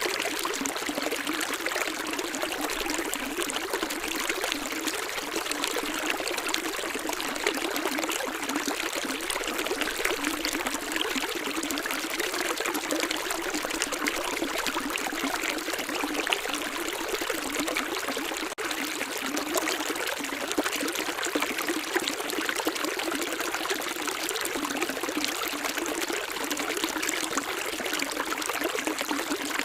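Running water of a stream flowing steadily, an even splashing and trickling with no pause, except for one split-second dropout about two-thirds of the way through.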